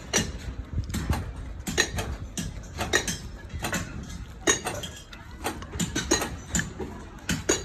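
Irregular clinks and knocks of hard objects, several a second, some with a short metallic ring, over a steady background bustle.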